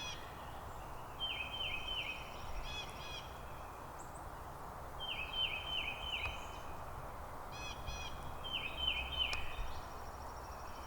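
Wild songbirds singing: one repeats a quick phrase of three or four falling notes every few seconds, while another gives short ringing calls in between, over a steady outdoor hiss.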